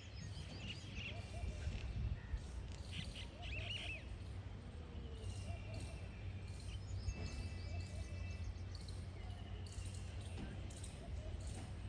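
Diesel locomotive 13005 running with a steady low engine hum, with birds chirping over it during the first few seconds and again briefly midway.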